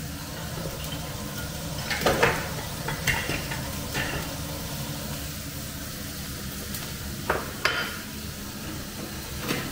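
Asparagus sizzling as it fries in a pan on a gas stove, with several clinks and knocks of utensils against the pans.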